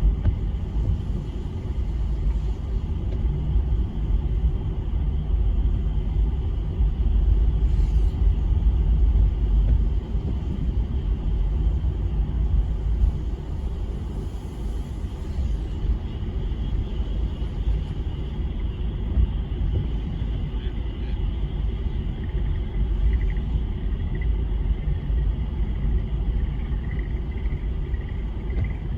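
A steady low rumble throughout. Faint, rapid frog calls come in about two-thirds of the way through and repeat to the end.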